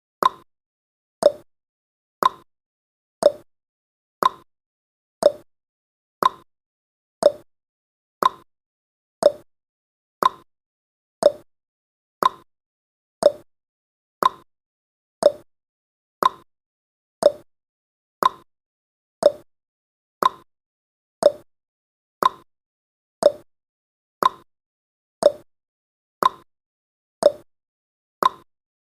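Countdown timer's tick sound effect: a short, sharp tick once every second, alternating between a lower and a higher pitch like a tick-tock.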